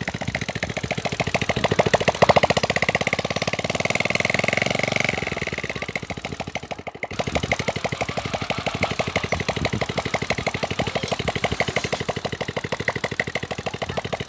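An engine running steadily with a rapid, even putter of firing pulses, which cuts out for an instant about halfway through.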